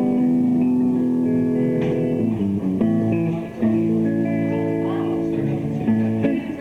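Live rock band's electric guitars and bass playing long, held chords that change every second or so, briefly dipping midway and stopping near the end.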